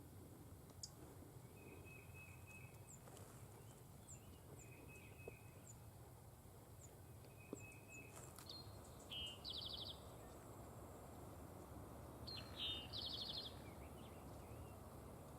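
Faint songbirds singing at dawn: scattered high chirps and short whistled notes, and one bird repeating a short song that ends in a rapid trill, three times. A faint steady low rumble runs underneath.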